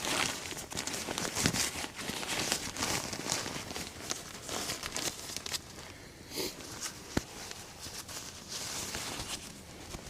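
Fabric rustling and crinkling as pillows and bedding are handled: a steady run of small, irregular scrapes and crinkles, busier in the first few seconds and thinning out after, with one sharp click about seven seconds in.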